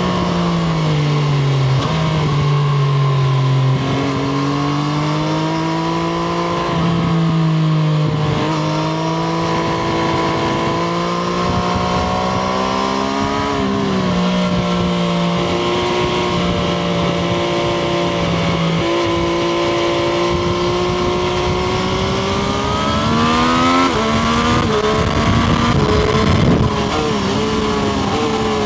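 Triumph Street Triple RS inline three-cylinder engine heard from onboard while riding. The engine pitch drops and climbs in steps several times as the rider changes gear, then rises steadily and gets louder near the end under acceleration.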